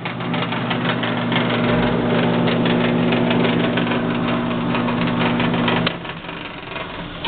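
JET 15-inch belt-drive bench drill press running, its motor giving a steady hum with a busy mechanical rattle. Near six seconds a click comes and the sound drops sharply to a quieter hum.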